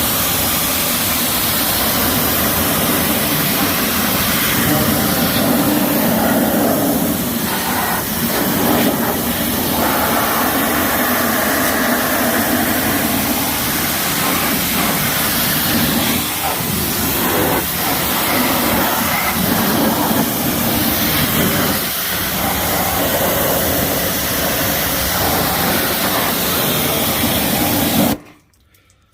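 Pressure washer spraying a jet of water into a vehicle's fender well, a loud steady hiss that stops abruptly near the end.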